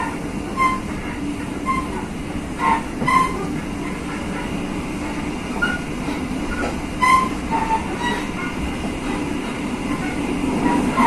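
Joglosemarkerto passenger train running along the track: a steady rumble, with short high wheel squeaks here and there and a few sharp knocks from the rails.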